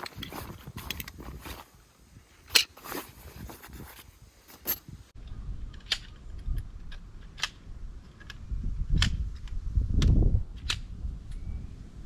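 Scattered sharp clicks and knocks of camping gear being handled, irregular and a second or so apart. After a cut about five seconds in, a low rumbling noise runs underneath, swelling briefly near the end.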